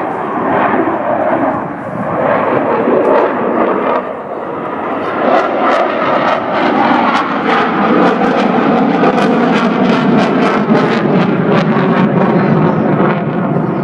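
Aircraft engine noise from an airplane flying past, a loud steady rush with a rapid crackle added from about five seconds in.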